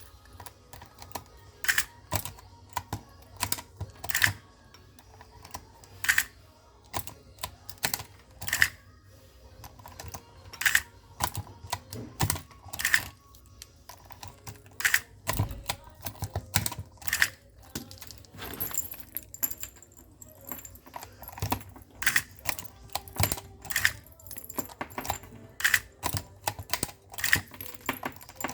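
Repeated sharp mechanical clicks, one every second or two, from an Audi Q7's repaired ignition lock and steering lock being worked during testing. A faint high-pitched whine joins in for the second half.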